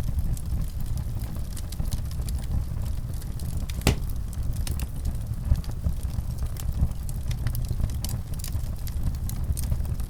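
Fireplace burning: a steady low rumble of the flames with scattered crackles and pops of burning wood, one sharper pop about four seconds in.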